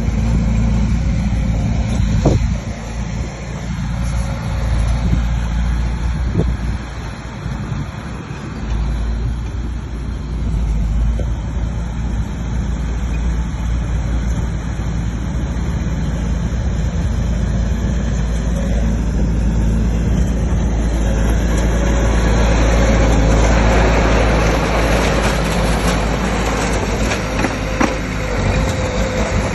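Bulldozer's heavy diesel engine running steadily under load. A rougher, hissing noise builds up over the last third.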